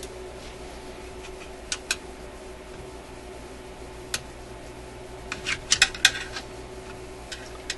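Metal tool clicking and scraping against a screw head and the metal shielding can on a tube radio chassis while trying to turn a stubborn screw: scattered sharp clicks, with a quick cluster of them about five to six seconds in, over a steady low hum.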